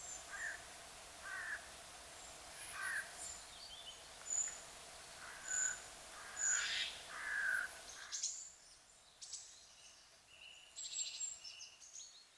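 Wild birds calling: short, repeated calls over a steady outdoor hiss. The background changes abruptly about eight seconds in, and a different set of calls follows.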